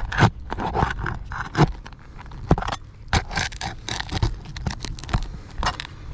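Scraping and irregular clicks of a tool working under roof shingles to pull out a remaining roofing nail.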